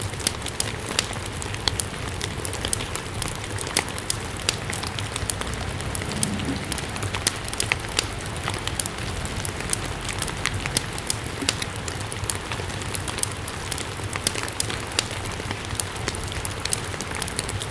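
Steady rain together with a wood fire burning in a fireplace, with frequent sharp ticks and crackles scattered throughout.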